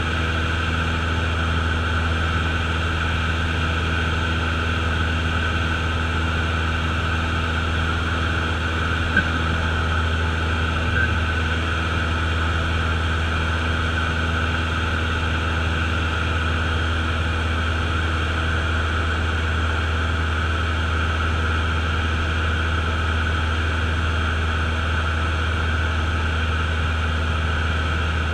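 Cessna light aircraft's piston engine and propeller droning steadily, with two faint clicks about nine and eleven seconds in.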